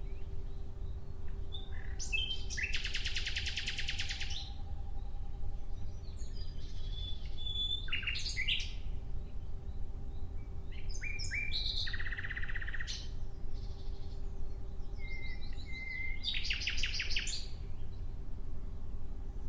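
Nightingale singing: separate phrases of very rapid, repeated trilled notes mixed with shorter whistled notes, with pauses of a second or two between phrases. A low rumble and a faint steady hum run underneath.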